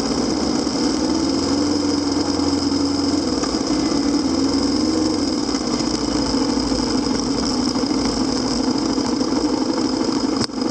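Kawasaki KLX250SR's single-cylinder four-stroke engine running at low revs, its pitch wavering slightly, with a brief dip near the end.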